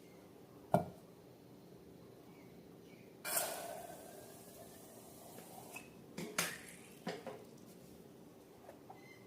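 Containers and utensils being handled while making slime: a sharp knock against a bowl a little under a second in, a short rush of something poured or dropped into it at about three seconds, then a few light clicks and taps.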